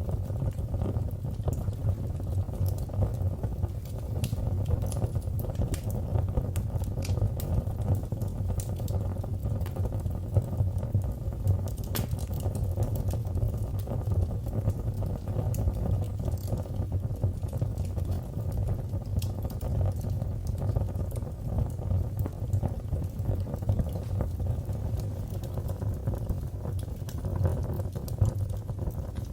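Wood fire in a fireplace crackling: a steady low rumble of the flames with scattered small pops and snaps, one sharper pop about twelve seconds in.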